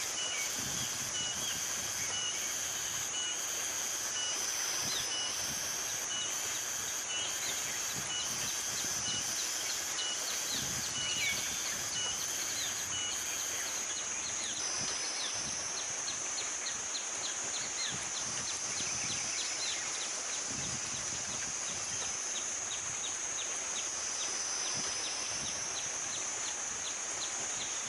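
Natural outdoor ambience: a steady high-pitched insect drone, typical of cicadas, with a short bird chirp repeating about once a second for the first half. After that come rapid ticking calls, several a second.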